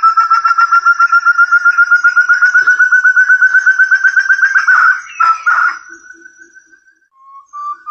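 Forest partridge (puyuh hutan, burung terung) calling: a fast run of clear whistled notes, about ten a second, slowly climbing in pitch for about five seconds. It breaks off into a few ragged notes and a short rising whistle, then the run starts again near the end.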